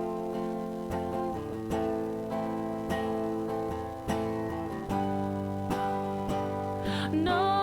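Instrumental music: an acoustic guitar strumming sustained chords, with a new stroke about once a second. Near the end a gliding melodic line comes in.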